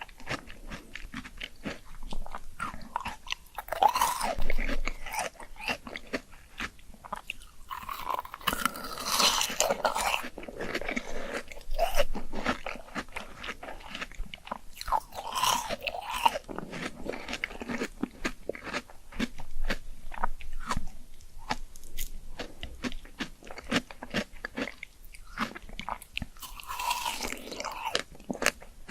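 A person biting into and chewing crisp fruit: a steady run of sharp crunching clicks, with several louder, longer bursts of crunching spread through.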